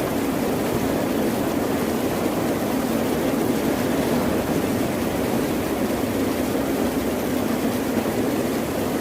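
Steady, even rush of water noise with a deep rumble, without the rise and fall of separate waves breaking.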